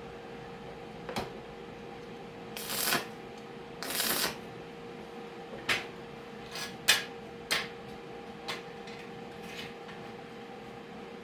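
Scattered clicks and knocks, with two short scraping sounds about three and four seconds in, over a steady hum.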